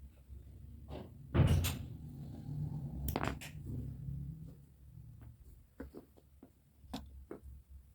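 Knocks and clicks from handling an old wall clock's mechanism: two louder knocks in the first half, then a scatter of small clicks.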